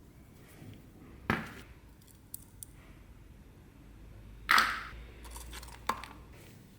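Objects being handled on a work surface while an old first aid box is searched: three sharp knocks or clunks, the loudest about four and a half seconds in, with a couple of small clicks and some light rustling between them.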